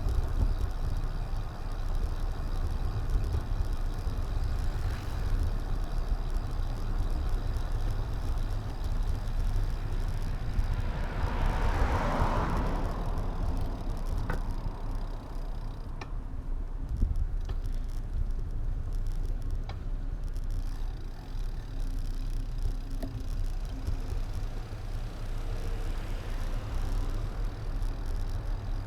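Steady low wind and road rumble on an action camera while riding, with a broad whoosh swelling and fading about eleven to thirteen seconds in, like a vehicle passing close by.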